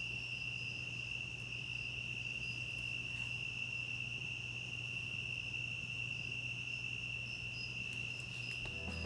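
Steady, unbroken high-pitched trilling of a night insect chorus, with a few faint pops from the campfire.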